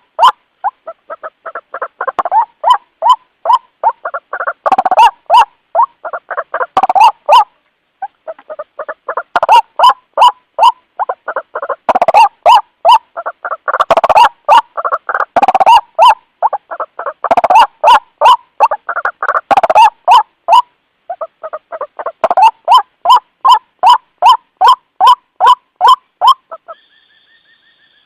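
White-breasted waterhen (ruak-ruak) giving its repeated lure call, a rapid run of harsh croaking notes about three to four a second, in long bouts with brief pauses. A faint steady tone sounds briefly near the end.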